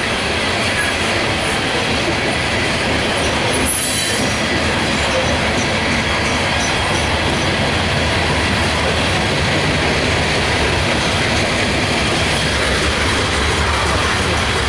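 Loaded coal train rolling steadily past on steel rails, the hopper cars' wheels running with a continuous loud rumble and a thin high squeal.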